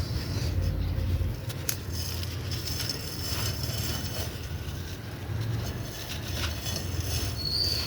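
Dry, crumbly sand-cement chunks being crushed and crumbled, a continuous gritty crackle with scattered sharp crunches, over a low rumble of wind on the microphone.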